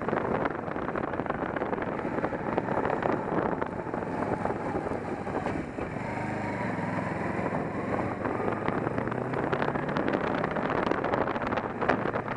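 Motorcycle engine running on the move, largely buried under steady wind rush on the microphone; the engine's note shows through a little more clearly midway.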